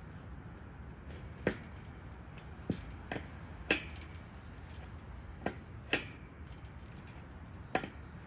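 About seven sharp, irregular metallic clicks and taps, a few with a brief ring, from a wrench working the nut on a gate's threaded-rod hinge, over a steady low wind rumble.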